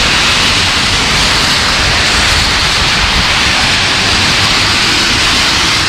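Steady loud hiss with a flickering low rumble underneath: wind buffeting the GoPro's microphone in a winter storm.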